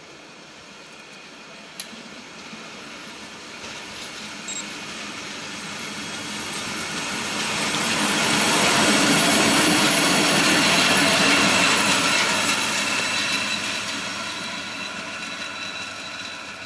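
A train passing: wheel and running noise swells over about eight seconds, stays loudest for several seconds, then fades away.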